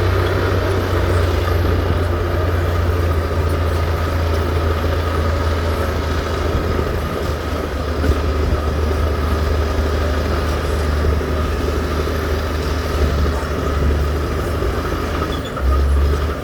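Heavy diesel engine of earthmoving machinery running steadily with a deep, low rumble, rising briefly just before the end.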